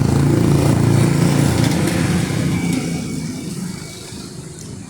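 A motor vehicle's engine running close by as it passes, loud at first and then fading away over the next few seconds.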